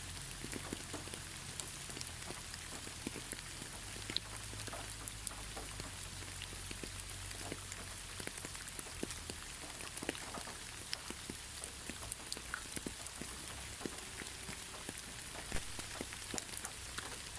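Gentle rain falling steadily: an even hiss with many scattered drop ticks and patters on a surface.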